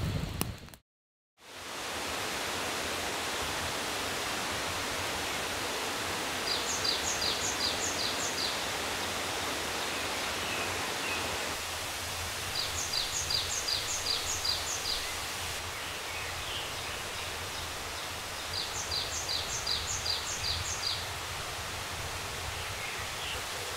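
Forest ambience: a steady, even rushing noise like rain or running water, with a high chirping call repeated in quick runs of five or six notes about every six seconds. The sound drops out to silence briefly about a second in.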